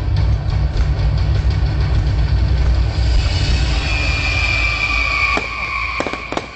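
Fireworks display: a steady rumble of bursting shells with repeated bangs. From about four seconds in, a high whistle falls slightly in pitch, and a few sharp bangs ring out near the end.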